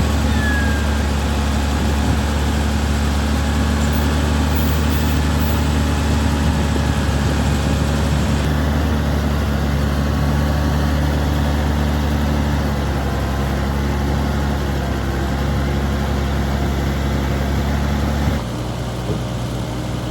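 Heavy diesel engine of earthmoving machinery running steadily with a deep hum; the engine note shifts slightly partway through and drops suddenly to a quieter, lower running about eighteen seconds in.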